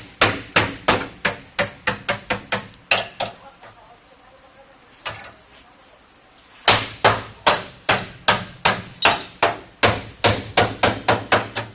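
Hammer blows on the sheet-metal body of a Toyota Hiace van in panel beating, quick regular strikes about four a second. The hammering stops for about three seconds midway, broken by one lone blow, then starts again at the same pace.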